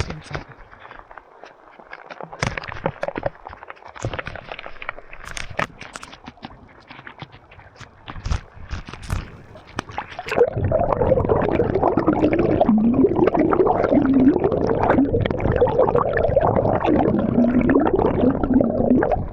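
Scattered knocks and splashes, then water gurgling loudly and continuously from about halfway through, with a wavering, bubbling pitch.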